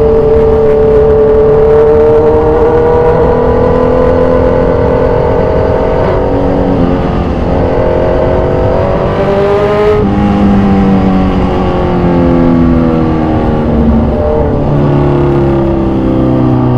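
2014 Kawasaki Z1000 Sugomi's inline-four engine running through an aftermarket exhaust, revs slowly rising under acceleration. About ten seconds in the revs drop sharply, then step lower several times toward the end.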